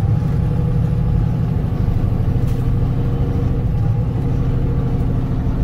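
Semi truck's diesel engine running, heard from inside the cab as a steady low drone while the truck creeps forward up an icy grade.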